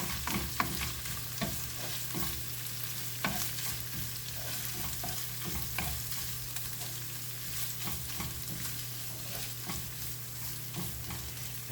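Red curry paste and Thai basil sizzling in a hot pan as a spatula stirs them, with many short clicks and scrapes of the utensil against the pan.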